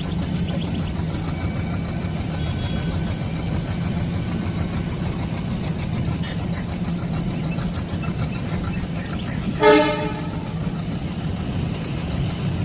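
Train running, a steady low rumble, with one short horn toot about ten seconds in.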